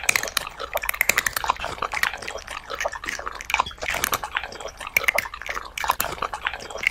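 Eating sounds: chewing and munching, a dense run of irregular crunches and smacks.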